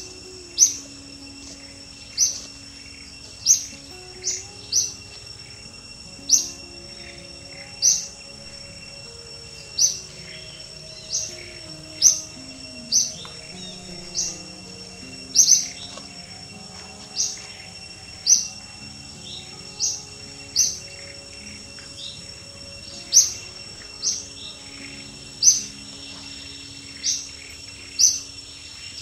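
A bird repeating a short, high chirp, about twenty times at uneven gaps of half a second to two seconds, over a steady high insect drone.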